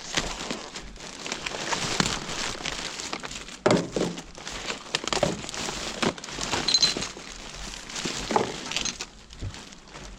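Rubbish bag being rummaged through by hand: steady rustling and crinkling of plastic, with a few sharp knocks and clinks from items inside.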